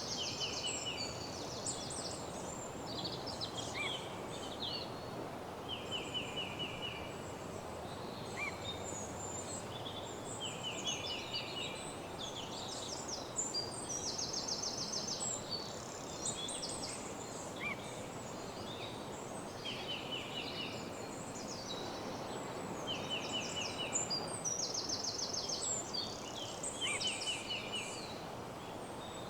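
Woodland dawn chorus of several songbirds, with short, fast trills and chirps repeating every second or two. Beneath it runs a steady low rushing ambience.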